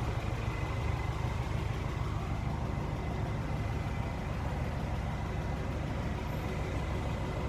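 Steady low rumble of an engine idling, with a faint steady high-pitched tone over it.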